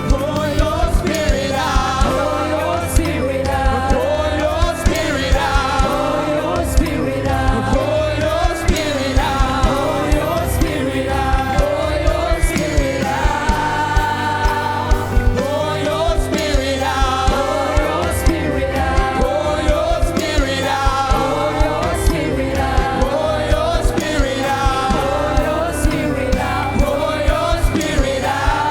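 Gospel worship song: a choir singing over keyboard chords, bass and a steady drum beat.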